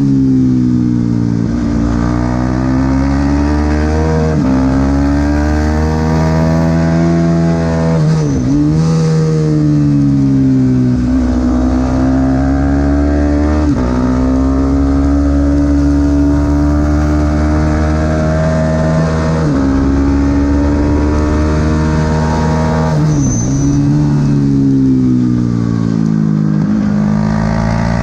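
Supersport 300 race motorcycle engine at racing speed, its pitch climbing and falling as it runs through the gears, with a sharp change of pitch every few seconds at each gear change and a deep dip about eight seconds in.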